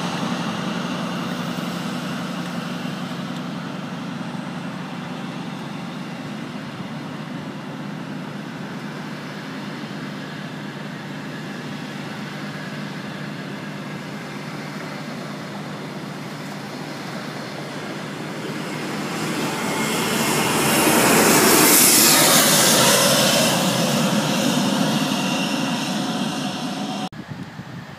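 Class 43 HST express passing at speed: diesel power car engine drone over the run of wheels on rail, easing as the leading power car draws away, then swelling to its loudest about twenty seconds in as the rear power car goes by. Cuts off suddenly near the end.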